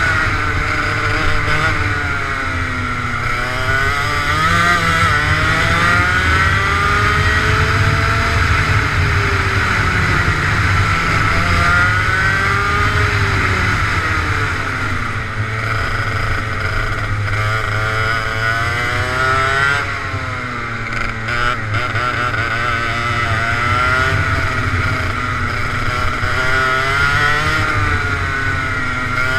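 Go-kart engine running hard, its pitch climbing and dropping again and again every few seconds as it accelerates and slows through a lap.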